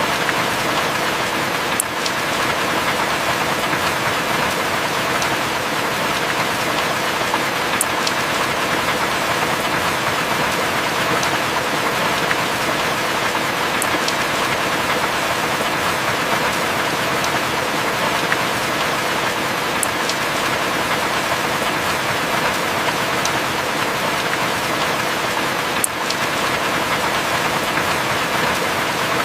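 Steady heavy rain, an even hiss with no thunder, with a faint tick recurring about every six seconds.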